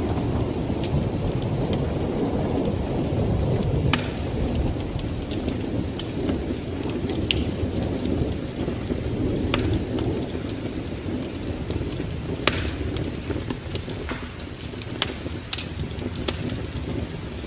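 Wood fire crackling in a fireplace with scattered sharp pops, over a low rumble of thunder that slowly dies away.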